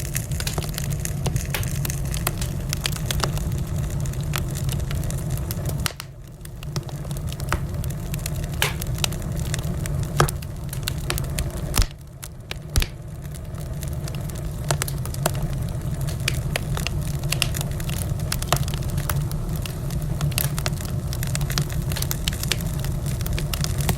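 Wood fire crackling in a fireplace, with frequent sharp pops and snaps over a steady low rumble. The level drops briefly about six seconds in and again about twelve seconds in.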